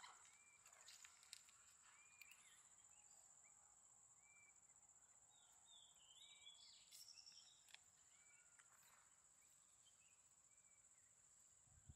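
Near silence: faint outdoor ambience with a steady high whine and small bird chirps recurring about once a second, with a brief cluster of higher chirps around the middle.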